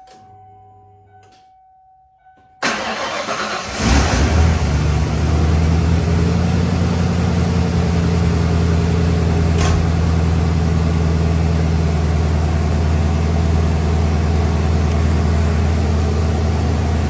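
1993 Ford F-150 engine cranking for about a second, catching, briefly revving, then settling into a steady idle.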